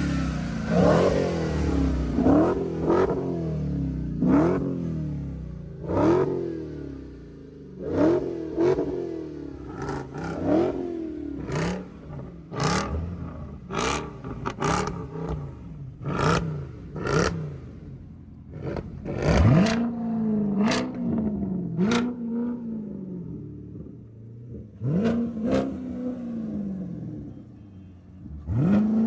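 A 6.2-litre V8 car engine free-revved in repeated short blips from idle, each rev rising and falling quickly, many with sharp cracks. About two-thirds in the blips change to a lower, shorter note.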